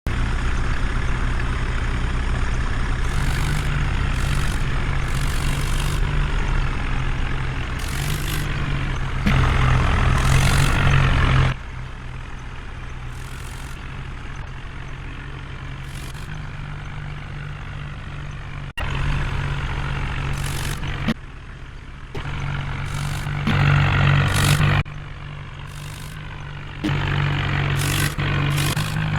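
Heavy diesel engine running steadily, in several back-to-back clips whose loudness jumps abruptly at each cut, with short higher-pitched bursts over the engine now and then.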